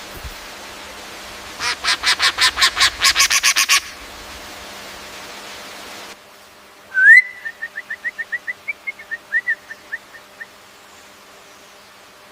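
Bird calls in two passes: first a fast run of about a dozen harsh notes over two seconds, growing louder; then, after an abrupt change in the background, a sharp rising whistle followed by a string of short notes that slow and fade away.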